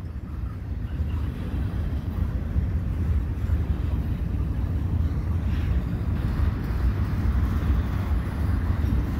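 Double-stack intermodal freight cars rolling past, their steel wheels on the rails making a steady low rumble. It builds a little over the first couple of seconds and then holds even.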